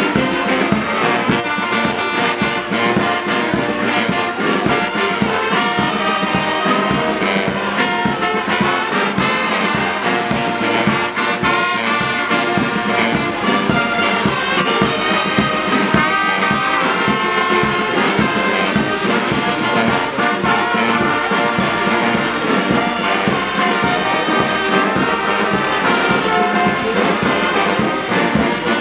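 Brass band music with trombones and trumpets playing over a steady beat.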